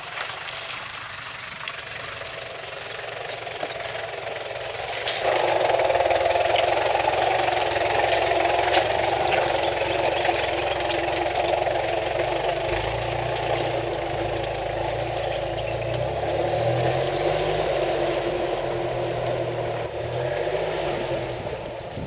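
Toyota Prado 120 running at low revs as it crawls over a rough, rocky track, with the pitch of the engine stepping up and down and scattered knocks and rattles throughout. The drone gets louder about five seconds in.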